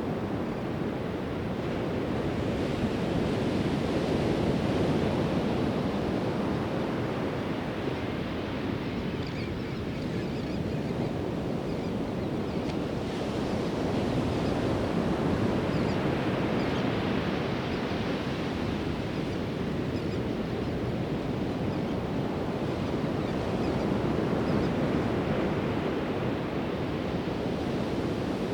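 Pacific Ocean surf breaking and washing up the beach, a steady rush that swells and eases about every eight to ten seconds as sets of waves come in.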